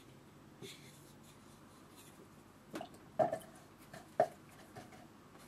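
Watercolour brush being rinsed and worked against a water pot and palette: a few light taps and clicks with small watery sounds, the two loudest about three and four seconds in.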